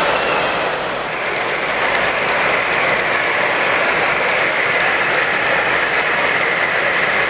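A model train running on a show layout: a steady running noise, with a higher, steady whine joining in about a second in.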